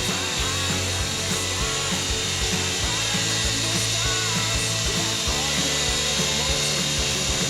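Small electric motors and rotors of a Syma S108 toy RC helicopter whining in flight, the pitch shifting up and down.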